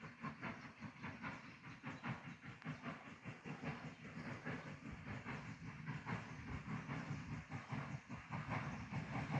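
Train running uphill, with a quick regular beat of about four strokes a second over a steady hiss.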